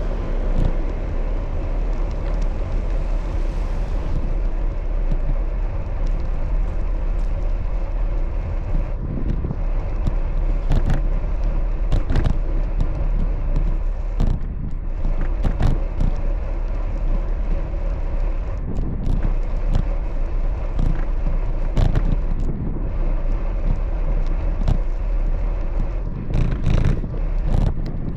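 Steady wind and road rumble from a bicycle ride, with frequent short clicks and knocks.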